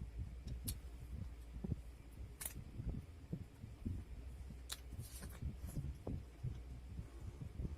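Close-miked chewing of pork and rice: a steady run of soft, uneven mouth thuds, with a few sharp clicks or lip smacks mixed in.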